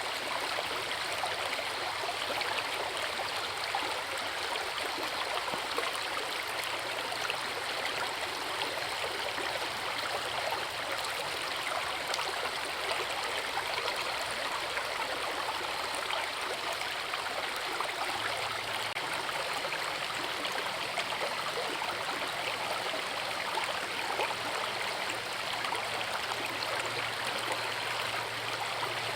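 Forest river with a small waterfall: a steady rush and burble of flowing water.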